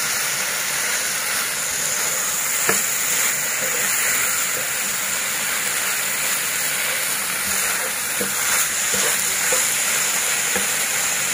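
Fried rice sizzling in a hot non-stick wok as it is stirred and tossed with a plastic spatula: a steady hiss with a few light scrapes and taps of the spatula against the pan.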